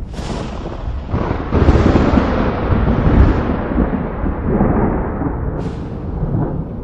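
Thunder: a sharp crack at the start, then a long rolling rumble that swells to its loudest two to three seconds in and slowly eases off.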